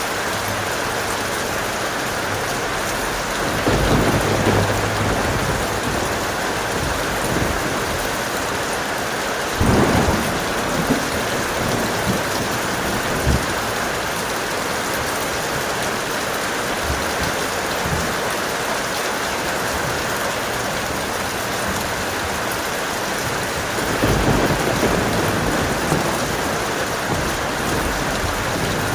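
Steady heavy rain with thunder rumbling three times: about four seconds in, about ten seconds in, and again near the end.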